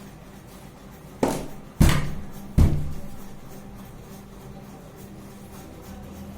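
Three deep, loud barks from a Saint Bernard, coming about half a second apart and echoing in a small room.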